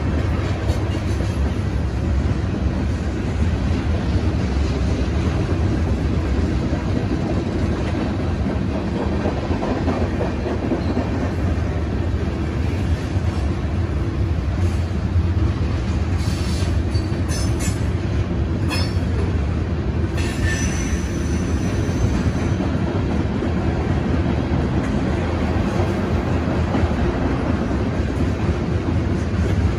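CN freight train's tank cars rolling past a grade crossing: a steady low rumble of wheels on rail with clickety-clack from the rail joints, and a brief high wheel squeal about twenty seconds in.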